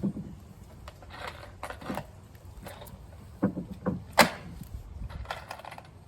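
Composite deck boards and plastic spacers being handled and set in place: several sharp knocks, the loudest a little after four seconds in, with short scraping sounds between them.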